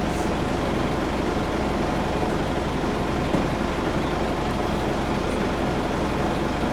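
A steady engine rumble, like a vehicle running, with one brief knock about three and a half seconds in.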